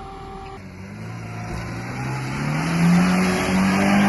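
A 4x4's engine revving up under load: its pitch climbs over about two seconds, then holds high and loud, as a stuck Niva is worked free.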